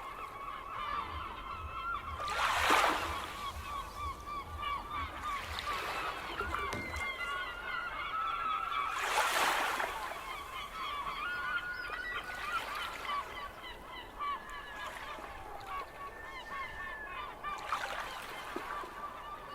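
Seagulls crying over and over in a dense flock chorus, with two louder rushes of noise, like surf, about three and nine seconds in.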